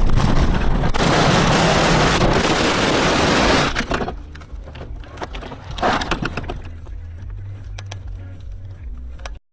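A road collision recorded by a dashcam: a loud burst of crashing noise lasting nearly three seconds, then quieter clattering with a short burst about six seconds in, cut off abruptly near the end.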